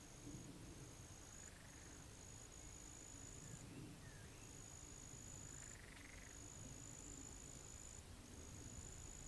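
Faint insect trilling at the pond's edge: a thin, very high, steady trill in phrases of one to two seconds with short breaks. A few faint short calls sound lower down, over a soft low rumble.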